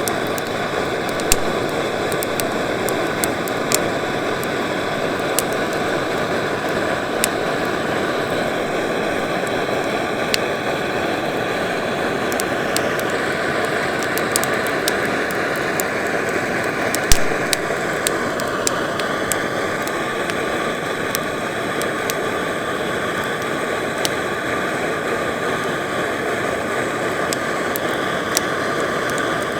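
Shin-Fuji Do-Ga GT-110 cassette-gas torch burner running with a steady hissing flame against damp wood, with scattered crackles and one louder pop about 17 seconds in as the wood starts to catch.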